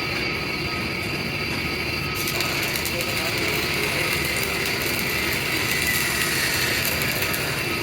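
Steady, continuous workshop machinery noise with no distinct knocks.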